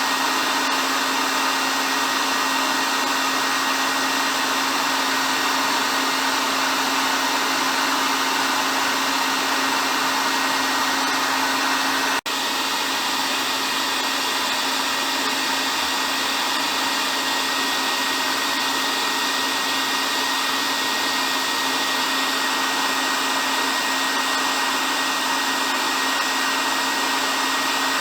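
Hair dryer running continuously: an even rushing blow with a steady hum and a faint high whine, broken by a split-second dropout about twelve seconds in.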